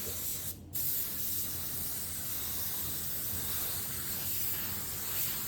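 Paint spray gun hissing steadily as a coating is sprayed onto the car body, with a brief break about half a second in.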